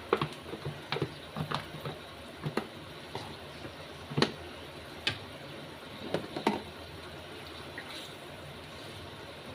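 A utensil knocking and clinking against a cooking pot at irregular moments while bell pepper is stirred into simmering chicken afritada sauce, over a steady wet bubbling.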